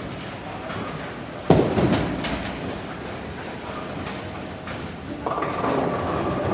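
Bowling ball hitting the pins with a sudden crash about a second and a half in, followed by a second of clattering pins. Near the end a pinsetter machine starts up and runs with a steady mechanical hum.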